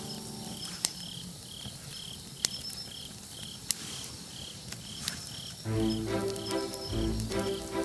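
An insect chirping steadily about twice a second, with a campfire's burning wood giving four sharp crackling pops. Background music with a bass line comes in about two-thirds of the way through and is the loudest sound.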